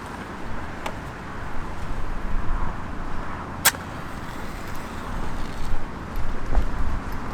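Wind rumbling on the microphone over a steady outdoor hiss, with one sharp click about halfway through and two fainter ticks.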